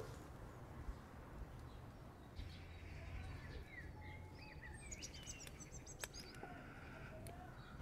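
Faint outdoor birdsong: small birds chirping and whistling in short, quick notes, busiest in the middle, with a single sharp click about six seconds in.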